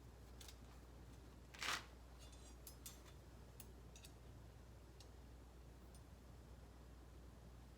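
Faint scattered clicks and one short scrape about one and a half seconds in, followed by a quick rattle: the thin titanium parts of an ultralight fire stand being handled and fitted together as its legs are attached.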